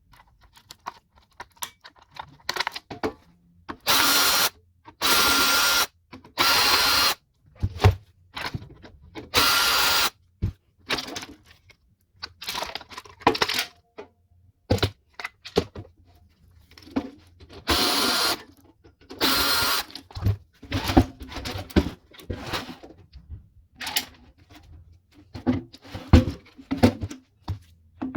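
Power drill/screwdriver run in several short bursts of about a second, dismantling a microwave oven, with clicks and knocks of metal parts being handled between the bursts.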